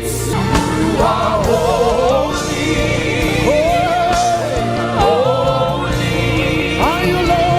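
Live gospel worship music: voices singing melismatic lines over a sustained keyboard and bass backing.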